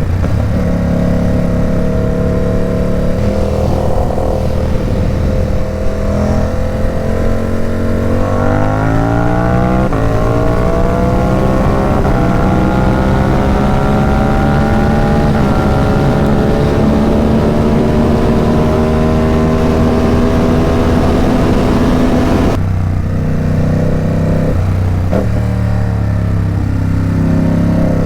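Ducati Supersport 950 S's twin-cylinder engine through an aftermarket Competition Werkes exhaust, heard on a ride. The engine runs at a steady pitch with a few throttle changes, then from about eight seconds in it pulls with the pitch climbing slowly for about fourteen seconds. It drops off sharply and runs lower and uneven near the end.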